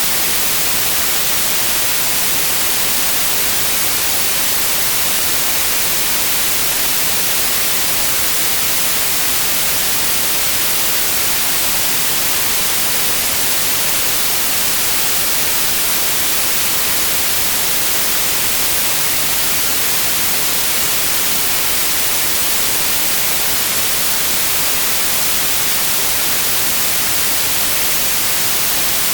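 Synthetic white noise: a steady, unchanging hiss, brightest in the high frequencies.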